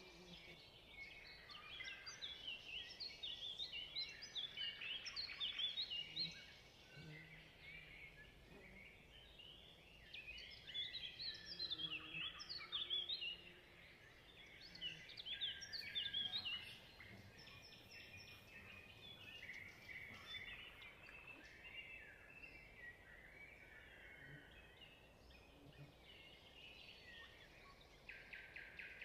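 Small birds chirping and twittering, in three louder spells of several seconds each with fainter chirps between.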